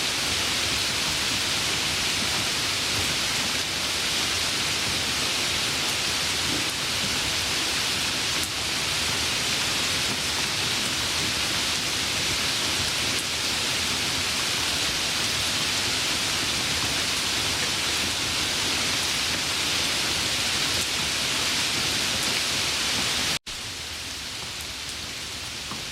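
Steady, even rain noise with no separate drops standing out. Near the end it cuts off abruptly and comes back at once, quieter and duller.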